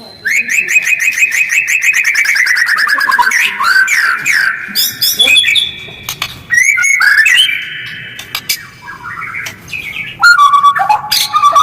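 White-rumped shama (murai batu) singing a fast, varied song. It opens with a rapid run of repeated notes falling in pitch over about three seconds, then a string of short whistled phrases, and turns to harsher, quicker notes near the end.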